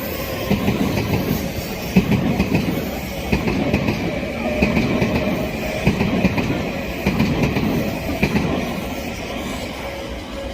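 Odakyu Line electric train passing over a level crossing, its wheels clattering over the rail joints in groups that recur about every second and a half, car after car. A thin steady high tone rings over it, and the clatter eases off near the end as the train goes by.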